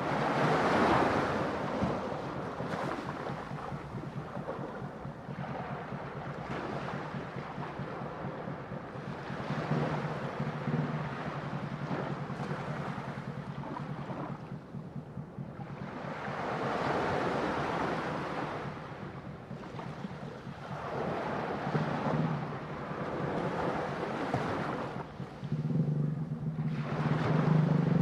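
Ocean waves breaking in repeated surges, each one swelling and fading over a few seconds, over a steady low rumble that grows stronger near the end.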